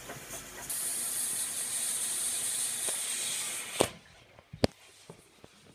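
Hoover Logic washing machine: a steady high hiss, most likely water running in, that cuts off with a click a little under four seconds in, followed by a second, sharper click about a second later.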